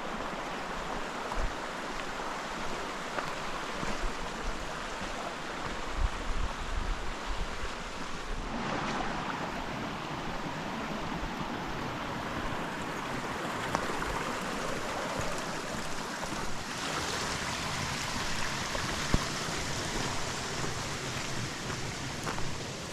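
Steady rush of flowing creek water, with a few brief low bumps on the microphone.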